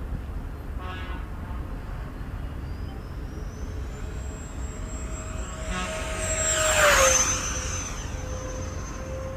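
FMS Yak 130's 70 mm electric ducted fan whining as the RC jet makes a fast pass: the whine grows louder, peaks about seven seconds in, and drops in pitch as the jet goes by, then carries on lower as it moves away.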